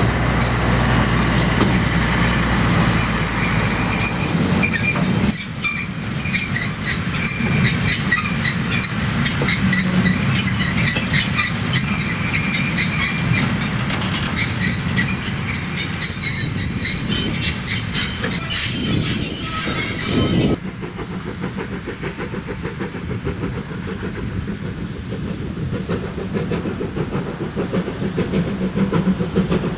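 Train running along the rails, its wheels squealing with a steady high whistle over a rumble and clatter of wheels and wagons. The sound changes abruptly about five seconds in, and again near two-thirds of the way through, where the squeal stops and a lower rumble is left.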